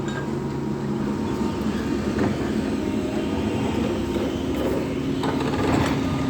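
SANY SY140 excavator's diesel engine running with a steady drone; its hum changes pitch partway through, and a few faint knocks come about five seconds in.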